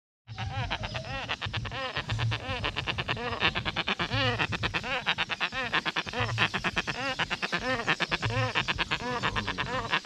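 A tame, hand-reared bird calling without pause: a rapid run of short, rising-and-falling croaking calls, several a second.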